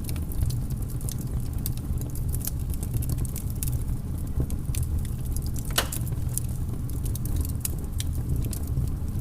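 Wood fire in a fireplace crackling, with irregular small pops over a steady low rumble and one louder pop about six seconds in.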